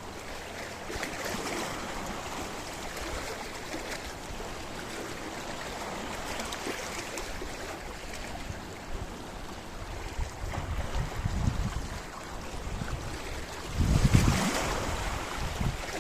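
Sea waves washing against a rocky shore, a steady wash with a louder wave breaking near the end. Low rumbles there may be partly wind on the microphone.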